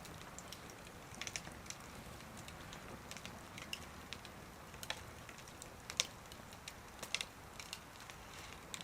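Wood fire crackling in a small wood stove: irregular sharp pops and snaps over a low steady hiss, with a few louder pops in the second half.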